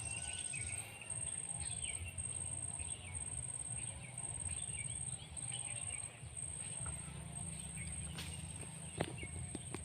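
Swamp ambience: an insect trilling in a steady high-pitched pulse, with birds chirping in short calls over a low rumble. A single sharp click about nine seconds in.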